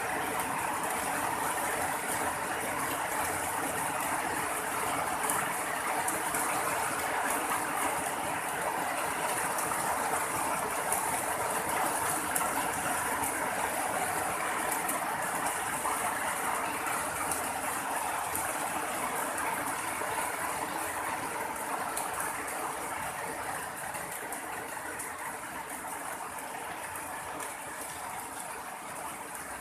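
Heavy rain pouring down steadily, a dense hiss of falling drops that eases slightly near the end.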